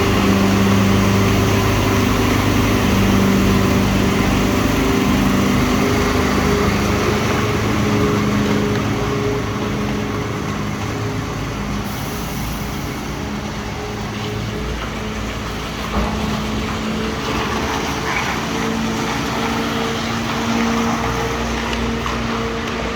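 A large diesel farm machine's engine running close by with a steady, pitched drone. It is loudest for the first several seconds, then eases off a little and shifts in pitch. There is a single knock about two-thirds of the way through.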